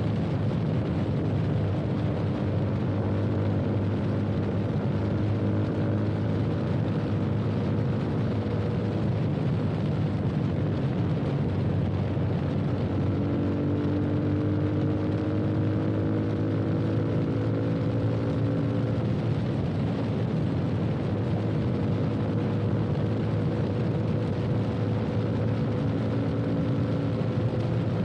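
Yamaha FZ25's single-cylinder engine running through an aftermarket full-system exhaust (Akrapovič R1M replica slip-on), with the motorcycle under way at a fairly steady speed. The engine pitch drifts slowly up and down, over steady wind and road noise.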